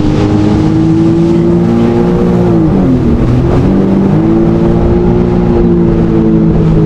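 Jet ski engine running at speed; about two and a half seconds in the pitch drops as the throttle eases off, then rises again about a second later and holds steady.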